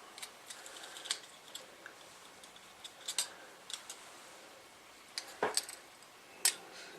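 Small plastic and metal parts of a radio's front panel clicking and tapping as the board and LCD assembly are handled and fitted together: a scatter of faint sharp clicks, the loudest two near the end.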